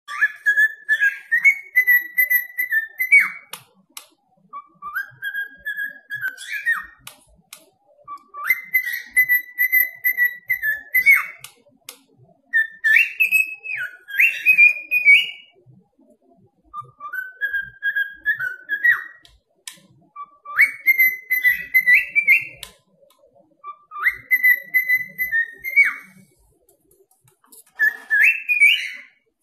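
Cockatiel whistling the same short tune about eight times, each phrase a couple of seconds long with brief pauses between, stepping up in pitch and ending on a quick upward flick.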